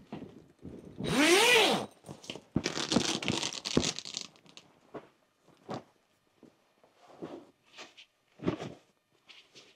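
A tent zipper pulled in two long strokes, the first with a rising-then-falling zip, followed by a few short, quieter rustles and scuffs.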